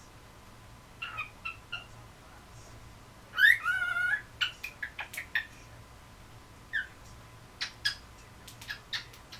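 Cockatiel calling: scattered short chirps, with one louder warbling call lasting under a second about three and a half seconds in.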